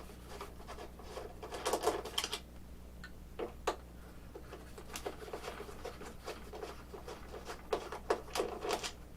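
Scattered light clicks and taps of hands and a small tool working on the landing gear of an RC airplane as it is taken off, in small clusters, over a steady low hum.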